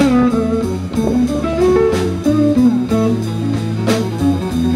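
Slow blues played by a band: a guitar fill of bent, sliding single notes between sung lines, over bass and drums.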